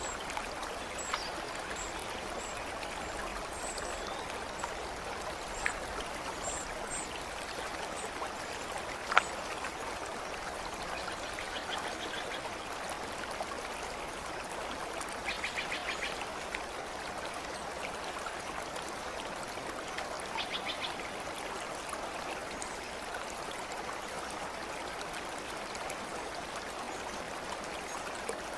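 Stream flowing steadily, with a few sharp drip-like ticks and faint high chirps in the first few seconds. Three short rapid rattling animal calls come at about a third, a half and two-thirds of the way through.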